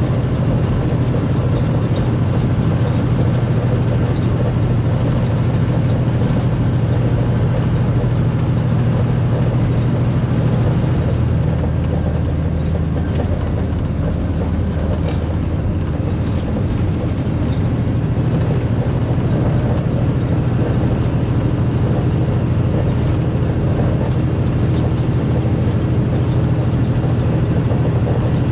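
Semi truck's diesel engine and road noise heard from inside the cab while driving, a steady low drone. About halfway through, the engine note drops a little for several seconds, then comes back up.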